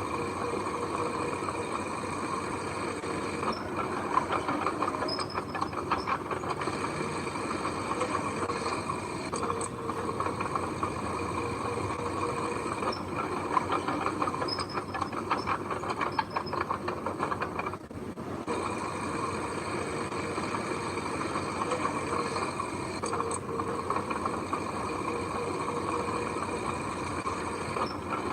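Heavy machinery running steadily, a continuous mechanical noise that briefly drops out a little before the midpoint.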